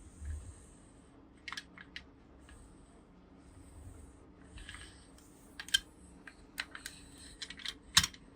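Small plastic toy pieces being handled: light clicks and taps, a few at first and more frequent in the second half, the sharpest click just before the end.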